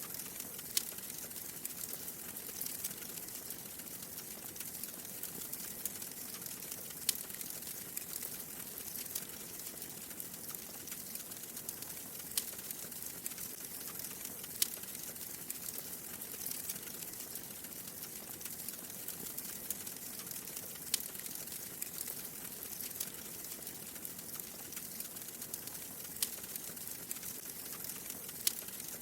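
Wood fire burning in a fireplace: a steady soft hiss and flutter of flames, with sharp crackles and pops every second or two.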